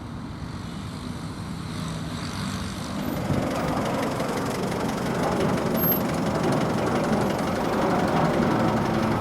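Lockheed C-130J Hercules's four turboprop engines heard from the ground as the aircraft approaches, a steady low drone growing louder throughout.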